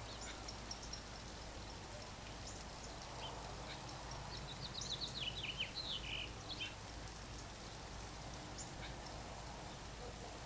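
Birds chirping with short, high calls scattered through, and a quick cluster of falling notes about halfway through, over a steady low background hum.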